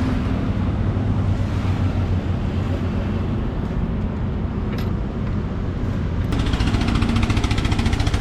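Car on the road: a steady low rumble of engine and tyre noise. Near the end a fast, even pulsing sound starts up over it.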